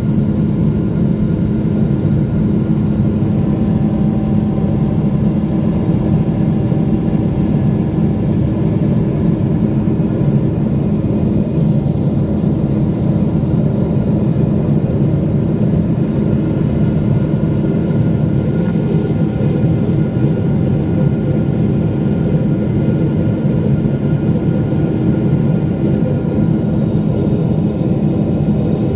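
Cabin noise of a Boeing 777-200 heard from a window seat: a loud, steady rumble of engines and airflow with faint high whining tones over it.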